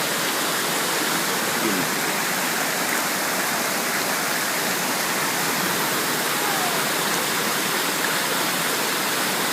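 Waterfall pouring steadily into a pool, a constant rushing of falling water.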